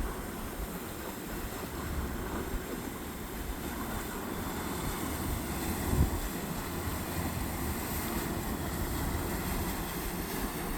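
Motorboat engines running past in a canal, a steady low rumble mixed with water wash and wind on the microphone, and a brief thump about six seconds in.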